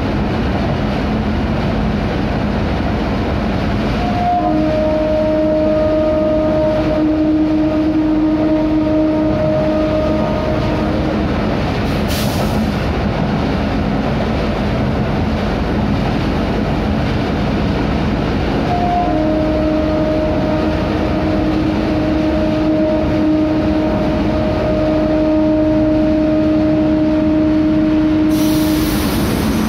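Train running through a railway tunnel, its steady rumble of wheels on the rails going on throughout. Over it a long steady horn tone sounds twice, each starting with a brief higher note: first about four seconds in for some seven seconds, then about nineteen seconds in for about ten seconds.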